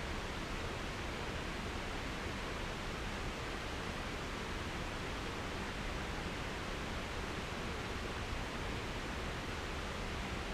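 Steady, even rushing noise outdoors, unchanging throughout.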